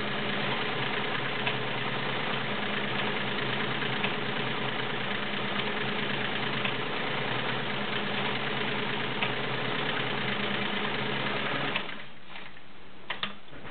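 Vintage Kenmore 1750 sewing machine's 1.2 amp motor running steadily as it sews a stretch box stitch driven by the stretch cam. The motor stops about twelve seconds in, followed by two light clicks.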